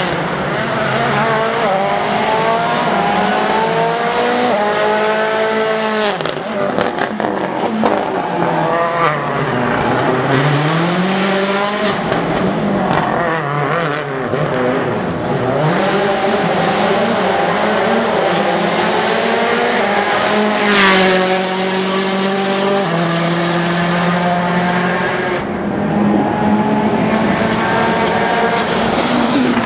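Citroen C4 WRC rally car's turbocharged four-cylinder engine revving hard, its pitch climbing and dropping again and again through gear changes. A cluster of sharp cracks comes about six to seven seconds in, and the car is loudest as it passes close about twenty-one seconds in.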